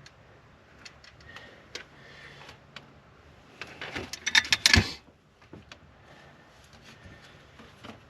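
Hand work on small hard parts: scattered light clicks, and a short, loud rattling clatter about four seconds in.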